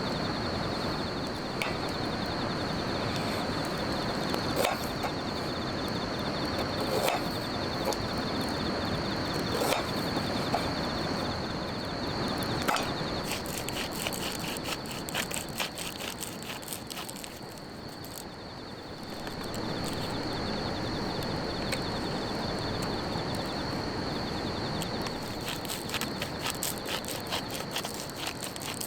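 Insects chirring steadily in one high, even trill over outdoor background noise, with scattered short knocks and clicks.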